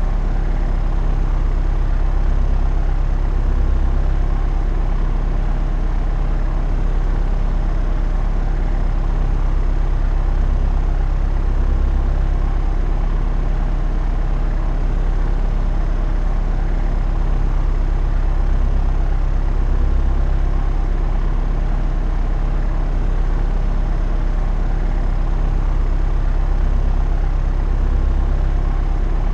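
Propeller aircraft in flight: a steady, deep drone of engine and propeller that swells gently every few seconds.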